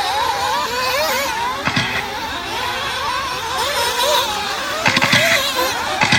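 Several nitro RC buggy engines running on the track, their high whine rising and falling as the buggies accelerate and slow. Sharp clattering knocks come about two seconds in and again twice near the end.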